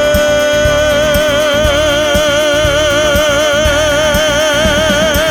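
A male singer holds the song's final note with a slow vibrato that grows wider, over a pop backing track with a steady drum beat.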